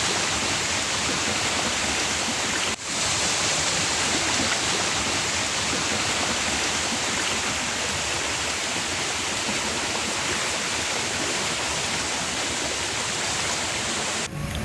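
Steady rushing of water, an even hiss that dips briefly about three seconds in.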